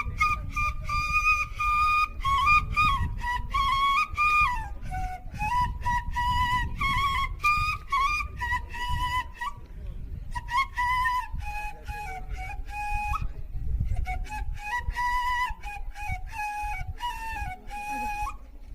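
A flute playing a melody of held notes with small stepwise turns, in phrases broken by short pauses, over a low rumble.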